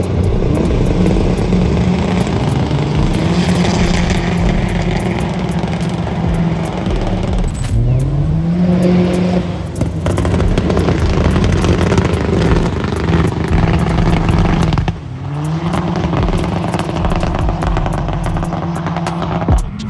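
A car engine revving hard and held at high revs, dropping off and climbing back up about 8 seconds in and again about 15 seconds in, over a steady hiss.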